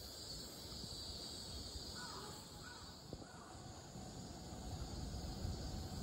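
A distant bird giving three short calls about two to three seconds in, over faint steady outdoor background noise.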